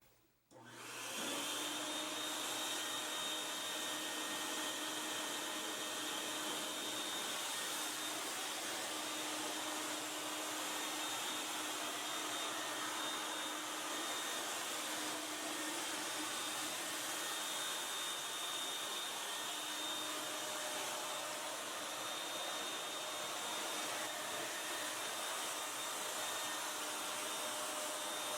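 Steady rush of air from a blower feeding a DIY air-caster platform, with a faint steady hum, as the platform floats a lawn tractor on a cushion of air. It starts about a second in.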